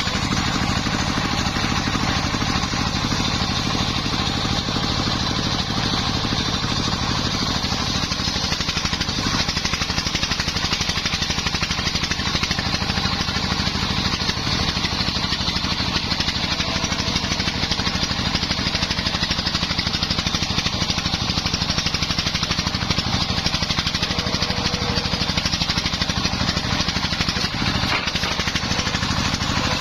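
Homemade circular sawmill rig running steadily: its engine and spinning blade make an even, unbroken mechanical drone with a hissing, whining top.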